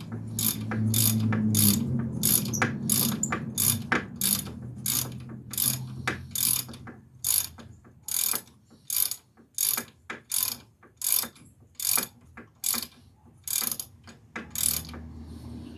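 Hand ratchet wrench worked back and forth, its pawl clicking in a long, even run of strokes about twice a second while tightening a strut bolt. The clicking stops shortly before the end.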